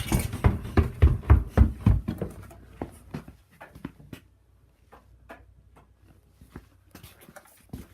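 Quick footsteps thumping, about four a second, which fade after about two seconds into scattered light knocks and clicks.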